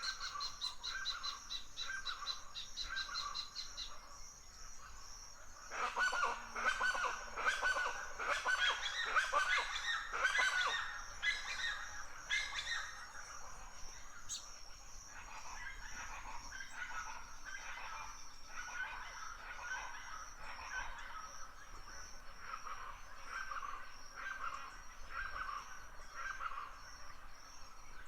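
Wild birds calling and singing, with a steady high trill underneath and short calls repeating about once a second. About six seconds in, a louder stretch of dense calling starts, lasting some six seconds before easing back.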